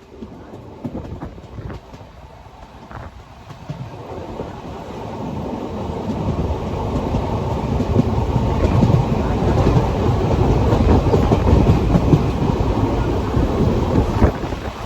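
Passenger train running on the rails, the coach wheels clattering over rail joints. The rumble grows louder over several seconds a few seconds in, then holds steady.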